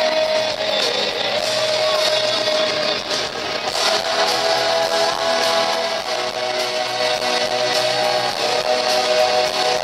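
Live band music: a pop-rock song played through a concert PA, with strummed electric guitar over a steady beat and a long held note.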